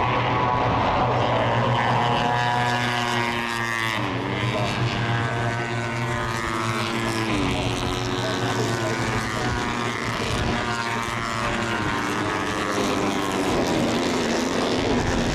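Several Moto3 race bikes' 250 cc single-cylinder four-stroke engines screaming at high revs, overlapping, with rising pitch under acceleration and sharp pitch drops at gear changes. A steady low drone runs underneath.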